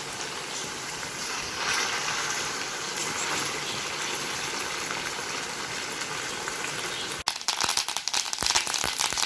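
Chicken pieces frying in hot coconut oil in a wok-style pan, a steady sizzle. Near the end it turns suddenly louder and crackly.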